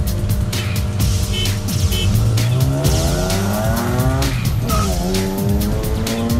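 Car engine accelerating hard, heard from inside the cabin: the pitch climbs steadily, drops at a gear change a little past four seconds in, then climbs again. Music with a steady beat plays over it.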